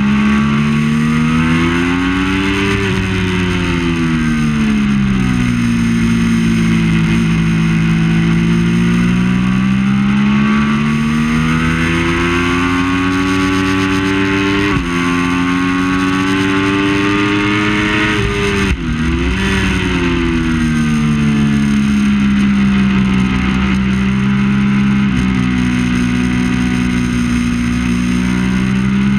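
Triumph Daytona 675's three-cylinder engine at racing speed, revving up and falling back again and again through the gears. There is a quick shift about halfway, and a sharp dip in revs a few seconds later.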